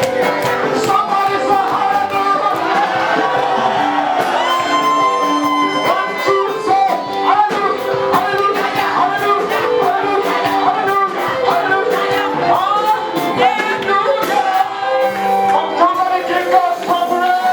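Live gospel praise-and-worship music: instruments holding chords under a sung vocal line with sliding notes.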